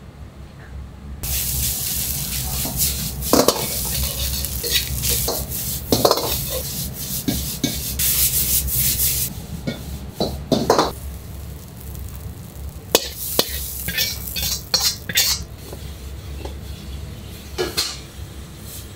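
Food sizzling loudly in hot oil, starting suddenly about a second in and easing after about nine seconds, with metal utensils clanking and scraping against cookware throughout.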